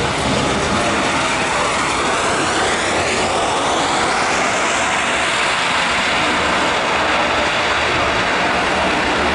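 Jet airliner passing low and close overhead, a loud, steady jet roar with tones that sweep in pitch in the first few seconds as it goes by.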